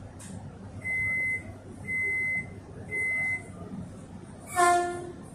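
Metro train's door-closing warning: three short high beeps about a second apart, then a short, loud horn toot from the train about a second later, over the low hum of the stationary train.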